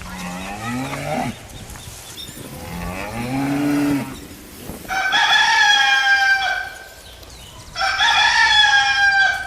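A cow moos twice with short calls that rise in pitch, then a rooster crows twice with longer, higher calls.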